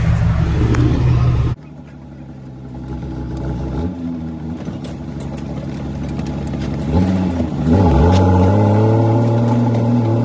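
Kenworth W900B's Caterpillar C13 diesel engine pulling the truck. It drops suddenly quieter about a second and a half in, then builds, dips and comes back up in revs about eight seconds in, as at a gear change, and runs loud and steady after that.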